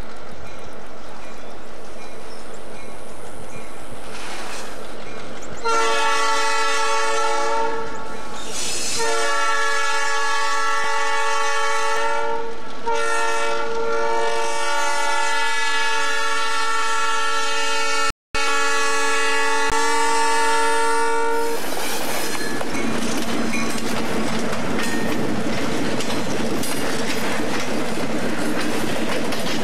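Diesel freight locomotive approaching and sounding its air horn in long blasts from about six seconds in until about twenty-one seconds in, the last blast held longest. The freight cars then roll past with wheels clattering over the rail joints.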